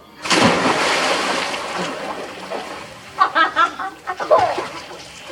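Someone jumping into a swimming pool on the count of three: one big splash about a quarter second in, then the water sloshing and settling, followed by a few short shouts.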